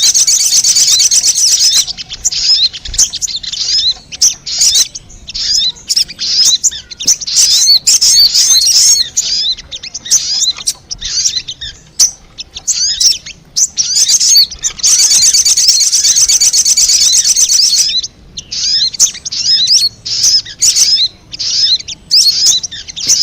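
Sogon (little spiderhunter) calls played as a lure: rapid series of high-pitched chirping notes. They run together into a fast, continuous trill near the start and again from about 14 to 18 seconds in.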